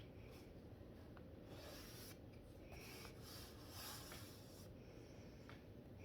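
Faint scratching of a brush-tip marker pen being stroked across paper in a few drawn-out strokes, with small clicks between them.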